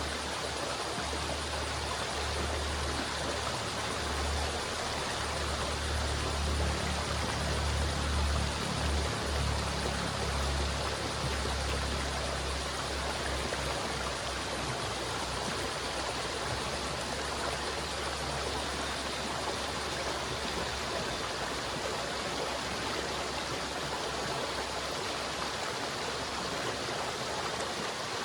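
River water flowing in a steady, continuous rush. A deeper low rumble swells for several seconds in the first half, then settles.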